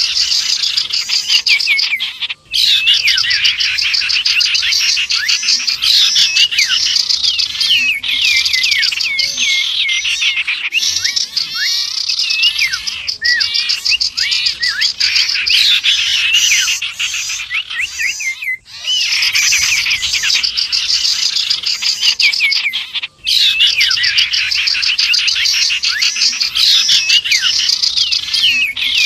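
A mixed bird-lure recording of small birds chirping densely, centred on common iora (cipow) calls: rapid high chirps and short whistled glides. It is broken by three brief dropouts where the loop is spliced.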